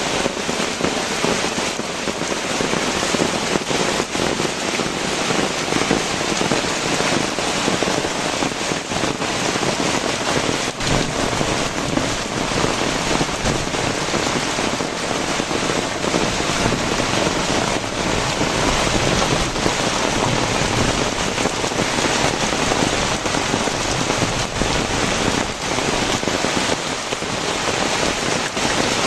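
Very heavy rain pouring down steadily, a dense even hiss with many small drop impacts.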